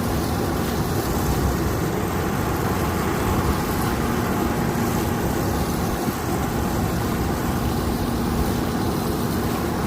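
Kukje KC 5130 rice combine harvester running steadily while harvesting, an even mechanical drone with a constant hum.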